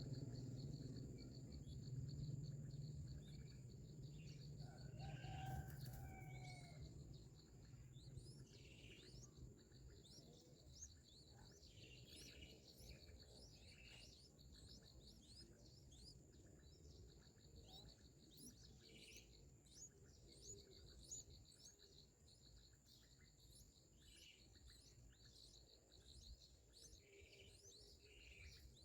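Faint bird chirping: many short, high calls throughout, with a couple of fuller, lower calls about five to seven seconds in, over a low steady rumble and a thin, steady high whine.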